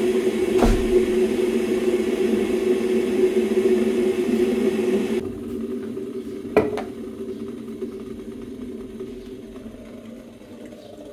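A steady mechanical whir or hum with a knock about half a second in; about five seconds in it drops sharply to a fainter hum that slowly fades, with another knock shortly after.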